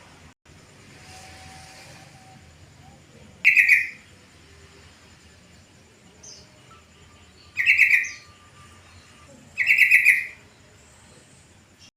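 Yellow-vented bulbul (trucukan) singing three short phrases of quick, rapidly repeated notes, the first about three seconds in and the last two about two seconds apart near the end.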